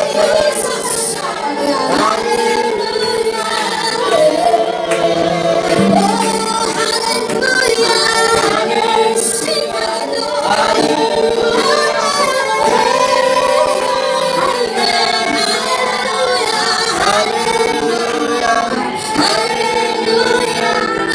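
Worship song: female voices singing together over music, with long held, sliding notes.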